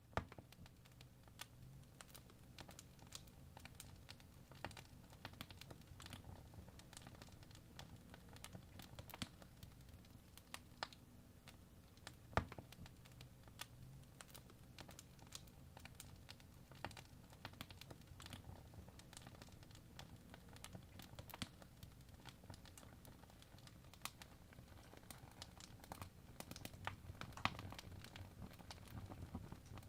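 Wood fire crackling, with irregular pops over a faint low rumble.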